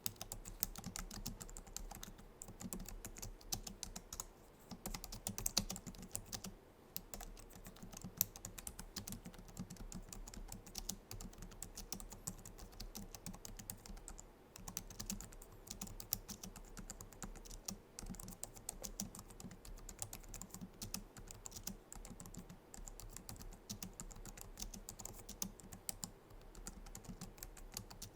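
Continuous typing on a Logitech MX Keys keyboard, its low-profile scissor-switch keys making quick, soft clicks with a few short pauses.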